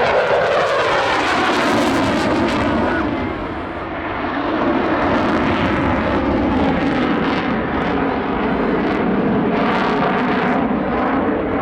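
Eurofighter Typhoon jet at high power through a high-speed barrel roll, its twin Eurojet EJ200 engines making a loud continuous jet roar that eases briefly about four seconds in and then swells again.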